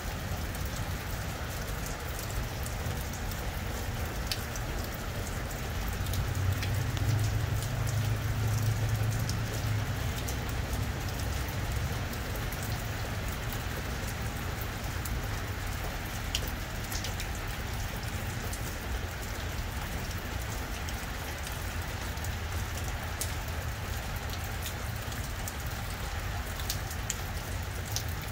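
Rain falling steadily on grass, with scattered close drops ticking. About six seconds in, a low rumble swells for a few seconds and fades back.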